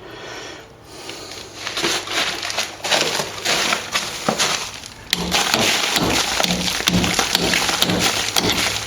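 Old plaster being scraped and chipped out along a wall crack, a dense run of scraping with many small knocks and crumbling bits, louder from about halfway through.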